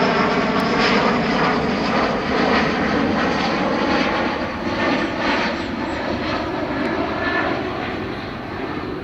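Jet airliner passing low overhead on its approach to land: a loud, steady engine noise with a whine running through it, slowly fading over the last few seconds.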